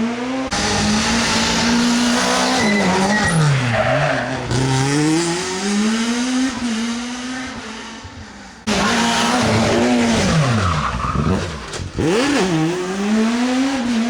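Rally car engine revved hard on a special stage, its pitch climbing and dropping again and again as it lifts, brakes and shifts, with tyre squeal. It fades for a few seconds and then comes back loud all at once, about halfway through.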